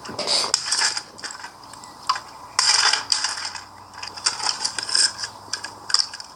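The broken mechanism of a See 'n Say talking toy running, its plastic gears clicking and rattling irregularly, with louder clattering bursts about two and a half seconds in and near the end.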